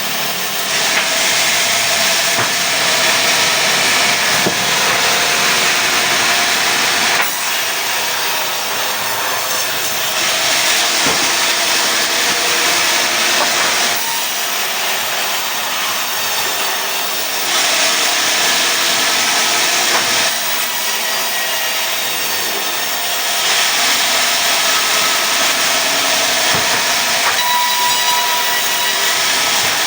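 Sawmill saw cutting through pine wood, a loud, steady hiss of the blade in the timber over the running machine, growing louder and quieter in stretches of a few seconds as the cut goes on.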